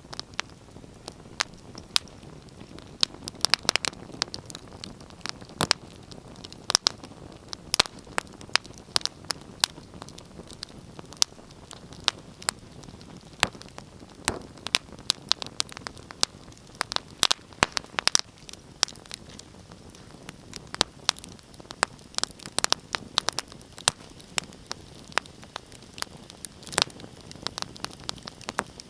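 Wood fire crackling in a fireplace: a steady soft hiss broken by many sharp, irregular pops and snaps, several a second.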